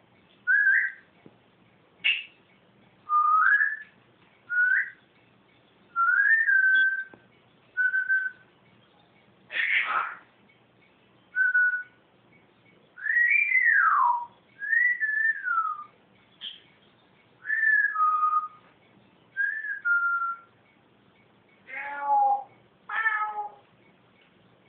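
Pet bird whistling a series of short calls, about one every second or two, each a quick rising or falling glide, mimicking someone calling a cat. Near the end come two rougher, fuller calls.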